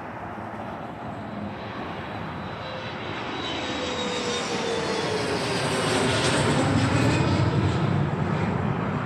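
Airliner passing overhead: its engine noise grows louder to a peak about six to eight seconds in, with a whining tone that glides downward as it goes by.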